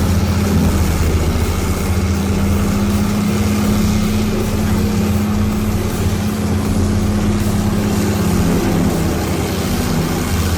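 Track-mounted tub grinder's engine running under steady load, a constant deep drone with no change in pitch.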